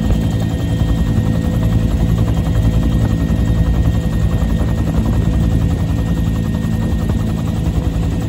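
Bell UH-1 Huey helicopter in flight: its turbine engine and rotor run steadily and loudly, with the rapid, even beat of the main rotor blades.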